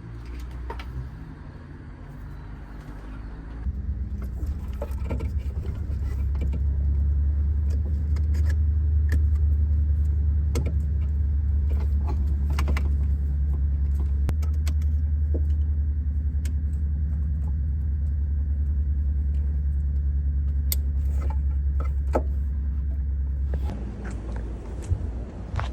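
Honda Civic's engine being cranked over on the starter motor for about twenty seconds without catching, with keys jingling; the cranking cuts off suddenly near the end. It is the crank-but-no-start fault the car has.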